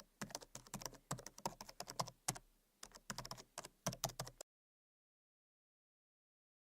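Rapid, irregular clicking like typing on a keyboard, stopping abruptly about four and a half seconds in and followed by dead silence.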